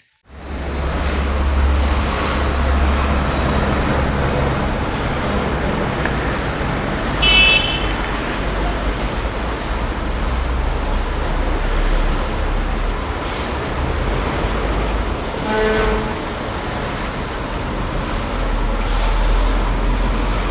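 Steady low rumble and road noise of a vehicle on the move, with a horn tooting briefly about seven seconds in and a second, lower-pitched horn near sixteen seconds.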